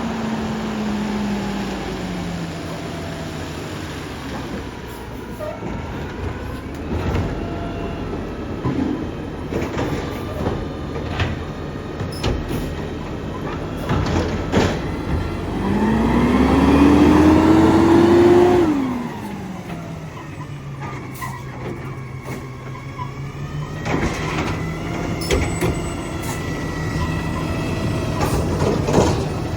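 Garbage truck's diesel engine idling, revving up with a rising pitch about halfway through, the loudest part, as for a packer cycle, then dropping back to idle. Scattered knocks and clanks throughout.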